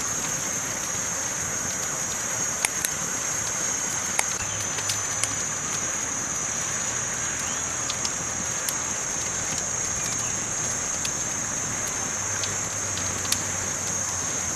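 Campfire burning: wood crackling with irregular sharp pops, a few seconds apart, over a steady hiss.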